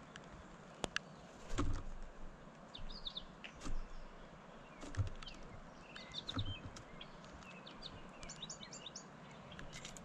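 Small songbirds chirping in short high bursts several times. In between come a few dull thumps and sharp taps from birds landing on and moving about a wooden platform feeder.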